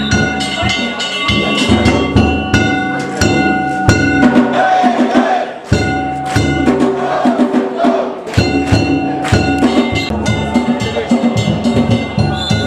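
Danjiri festival music: a taiko drum and metal gongs struck in a fast, steady rhythm, with the gongs ringing on between strikes.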